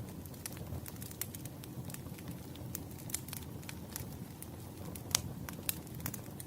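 Wood fire burning: a steady low rumble of flames with frequent sharp, irregular crackles and pops from the firewood, the loudest pop about five seconds in.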